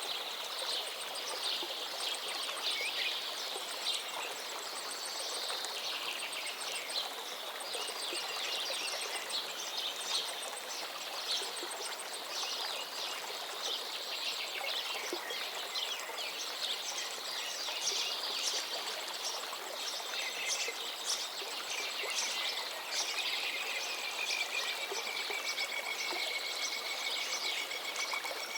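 Several birds singing and chirping over the steady rush of a gently flowing river, with one long, even whistled note near the end.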